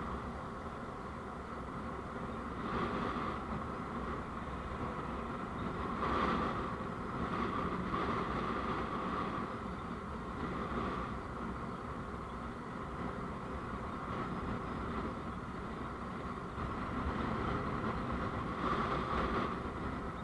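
Steady road and engine noise of a vehicle on the move, recorded on the vehicle itself, swelling louder several times.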